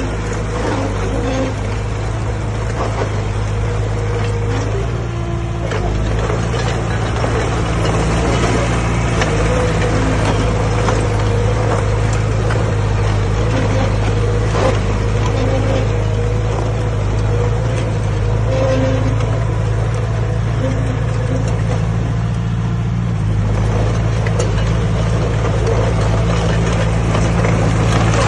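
Diesel engine of a D20A crawler bulldozer running steadily under load while it pushes stone, with a constant low drone and occasional clanks.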